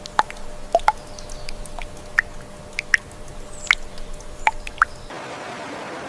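Water dripping: about a dozen separate drops plink and plop at irregular intervals, each a short pitched tick. About five seconds in, it cuts abruptly to a steady even hiss.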